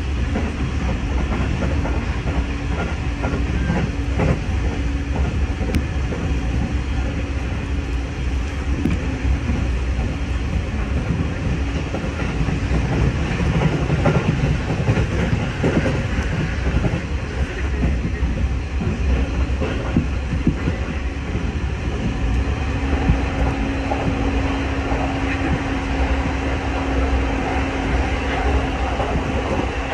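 Musashino Line electric commuter train running at speed, heard from inside the carriage: a steady rumble of wheels on rail with occasional clacks over rail joints and a steady low hum.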